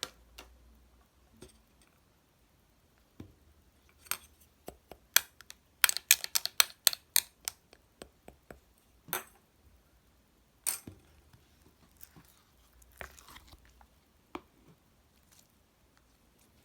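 Slime being squished and poked, making sharp clicks and air-bubble pops. A fast run of pops comes about halfway through, then softer crackling.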